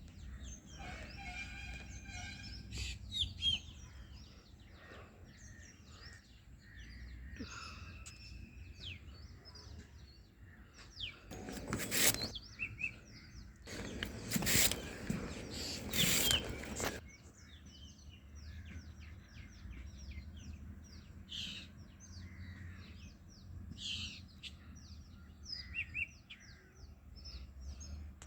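Small birds chirping and calling over and over. Two loud rustling or scraping noises cut across them about halfway through, one brief and one lasting about three seconds.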